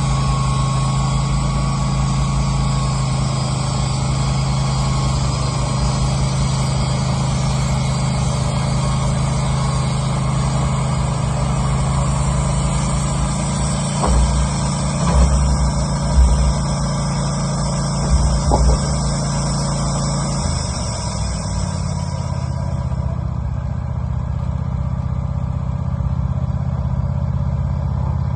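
Wood-Mizer LT15 portable sawmill's engine running steadily while its band blade saws through a pine beam, with a high hiss over the hum. A few knocks come in the middle, and about three-quarters of the way through the engine note drops and the hiss fades.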